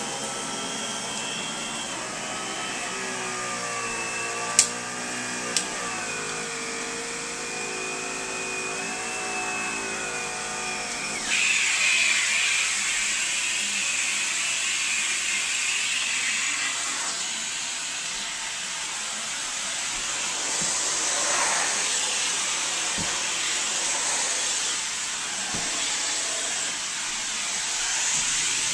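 Central vacuum system running, the hose drawing air with a motor whine and wavering tones, with two sharp clicks in the first few seconds. About a third of the way through, the sound jumps to a louder, steady rushing of air through the hose.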